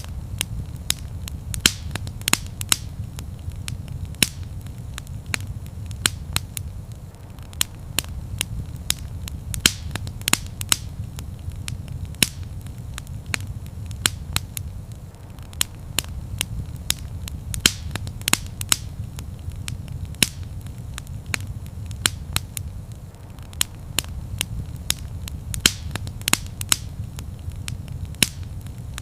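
Wood fire crackling in a fireplace: irregular sharp pops and snaps, several a second, over a low, steady rumble of the flames.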